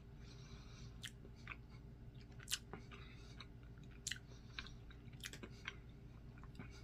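Quiet mouth sounds of someone eating chocolate pudding: scattered small wet clicks and smacks, with a couple of soft breathy hisses.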